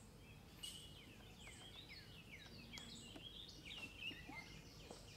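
Faint birdsong in woodland: a run of quick, high, falling chirps and calls, over a low background hiss, with one short faint tick about half a second in.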